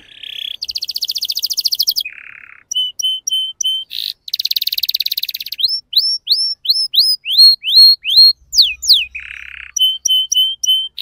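Male canary singing, phrase after phrase: a buzzy note, a fast trill, four short repeated notes, another fast trill, then a run of loud curved whistled notes about four a second, falling sweeps, another buzz and more short repeated notes.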